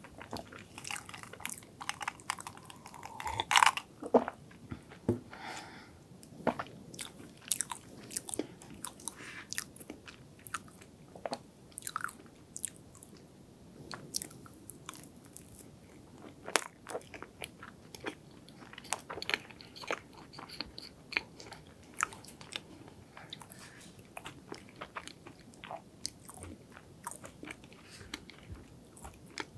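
Chewing of soft chocolate hazelnut cake, close to the microphone: wet, sticky mouth sounds and lip smacks in irregular short clicks, the loudest about three and a half seconds in.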